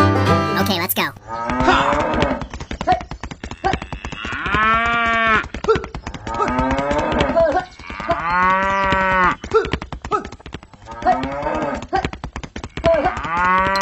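Cattle mooing repeatedly: three long moos about four seconds apart, with rougher, shorter calls between them, over a fast, steady ticking.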